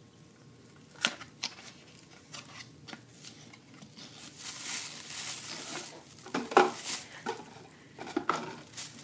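A small paperboard box being opened by hand, with a few sharp clicks and scrapes, then from about halfway a plastic bag crinkling steadily as the cube inside is pulled out, with a couple of louder rustles near the end.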